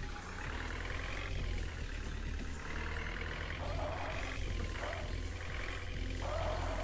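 Tractor engine running steadily, with a shifting mid-pitched sound over it that grows stronger near the end.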